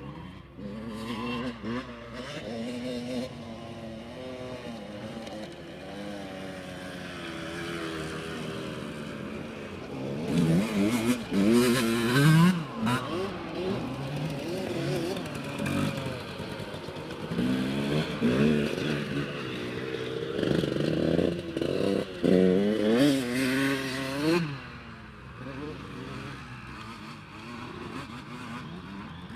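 Motocross bikes revving hard as they ride the track, engine pitch rising and falling with each gear change. The loudest passes come about ten seconds in and again from about eighteen to twenty-four seconds in.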